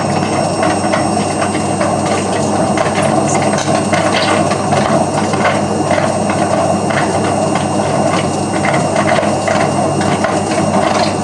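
Hotpoint Aquarius WMF520P washing machine on spin, with a steady loud rumble and rapid, irregular knocking and rattling from the drum. The drum spider has broken, so the drum and its bearings move about as it spins.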